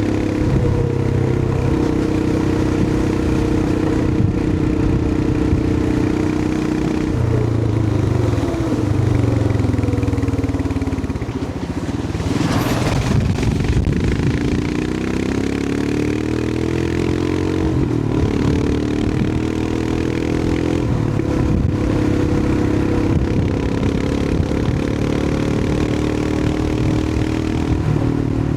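Royal Enfield Himalayan 411's 411 cc single-cylinder engine running under way, its note dropping and climbing several times as the throttle changes. About twelve seconds in it eases off briefly, with a short rush of noise.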